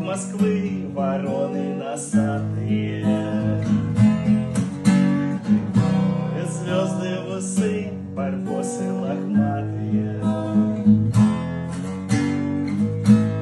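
Acoustic guitar strummed in a steady rhythm, playing a song accompaniment.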